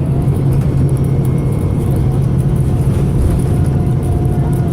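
VDL SB200 bus's diesel engine running under load with a steady low drone; the engine is misfiring.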